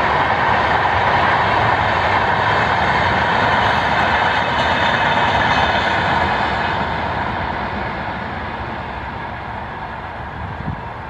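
Diesel-hauled express passenger train running past at speed, a steady rumble of the coaches on the rails. It fades gradually from about six seconds in as the train draws away.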